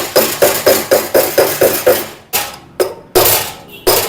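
Hammer blows on a punch driving a new ball bearing into a Honda CG 125 front wheel hub by its outer race. A quick run of strikes comes about four a second, then a few slower blows about half a second apart.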